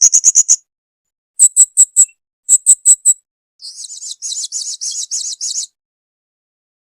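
Blue-crowned hanging parrot (serindit) calling: three short bursts of rapid, high, shrill chirps, then a buzzier trill of about ten quick pulses that stops shortly before the end.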